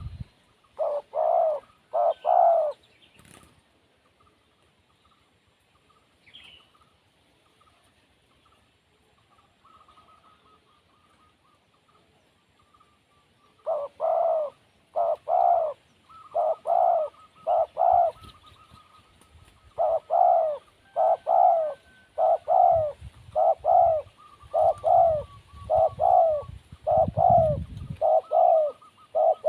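Spotted dove cooing: a few notes near the start, a long pause, then a steady run of repeated coos from about halfway through. A low rumble sits under the later calls.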